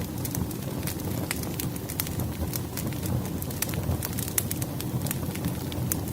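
Firewood burning in a fireplace: a steady low rumble of the flames with frequent sharp crackles and pops scattered irregularly throughout.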